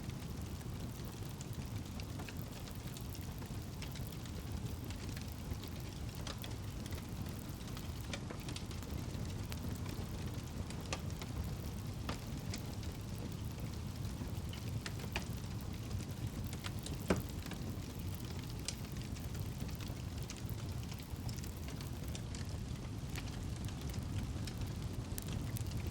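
Campfire crackling: irregular sharp pops and snaps from the burning wood, one louder pop about two-thirds of the way through, over a steady low rumble.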